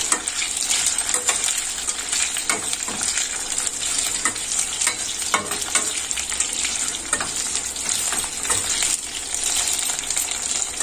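Fried brinjal pieces, cashews and peanuts sizzling in hot oil in a stainless steel kadai while a steel spatula stirs and tosses them, with frequent scrapes and clinks of metal on the pan.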